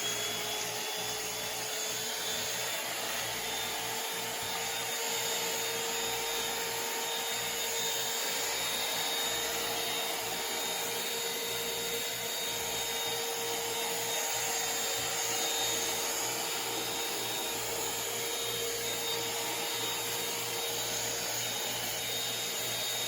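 Shark VM252 VacMop Pro cordless vacuum mop running steadily, its motor giving a continuous high-pitched whine over a broad suction hiss.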